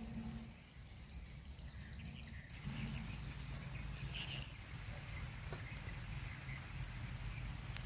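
Outdoor ambience with an insect's steady, high, thin trill. About two and a half seconds in it gives way abruptly to an even, steady hiss.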